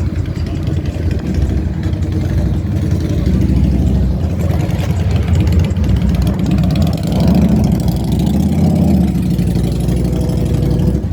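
Car engine running loudly at idle with a low, pulsing exhaust note, which picks up a little about seven seconds in.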